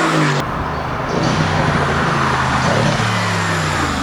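Mercedes-AMG GT S twin-turbo V8 through an Akrapovic titanium Evolution exhaust, running loud under throttle. Its pitch drops near the start and climbs again in the second half.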